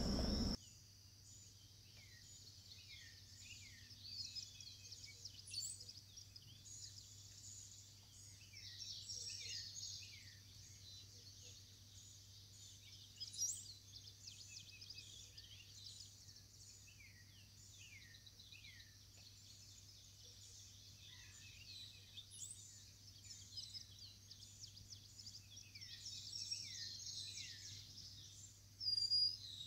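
Repeated short, falling chirps from birds, over a steady high buzz of insects.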